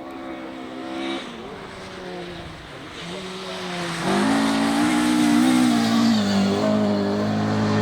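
Rally car engine revving hard, its pitch climbing and dropping with gear changes, growing much louder about four seconds in as the car comes closer.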